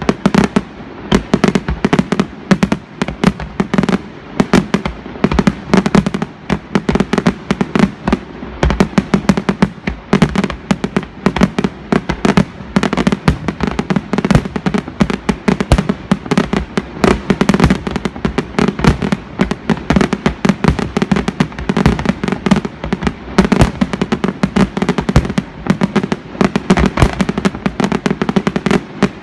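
Aerial fireworks shells bursting in a rapid, unbroken barrage of loud bangs, many each second, over a continuous rumble.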